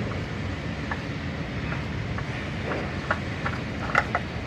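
Light clicks and clinks of a spin-on oil filter being unscrewed by hand, a cluster of them about three to four seconds in, over a steady background hum.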